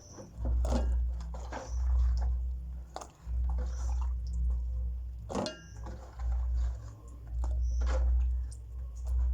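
Mushrooms being washed by hand in water: irregular splashes, squelches and small knocks of a bowl, with a low rumble coming and going underneath.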